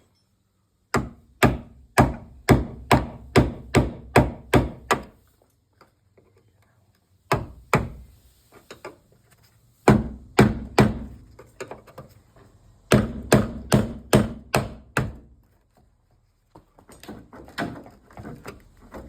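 Hammer driving a chisel through a car's inner wing panel: runs of sharp blows about three a second, broken by short pauses.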